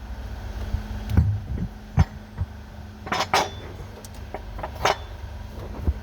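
Metal tools and parts clinking and knocking during hand work on an engine, with a cluster of sharp clinks about three seconds in and another near five seconds, over a steady low hum.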